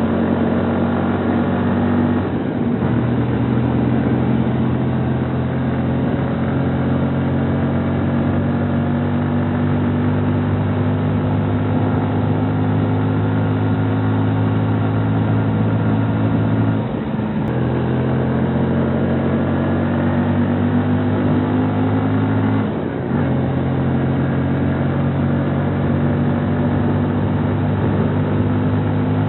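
Kawasaki Rouser NS125 FI's single-cylinder fuel-injected engine pulling steadily under way, its note rising slowly. The note breaks briefly three times, about two seconds in, past the middle and again a few seconds later, as gears are changed.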